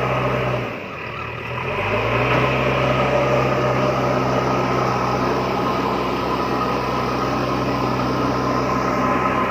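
Small electric motor of a DIY model tractor running with a steady hum. About a second in it slows and drops away, then picks back up to speed and runs steadily again.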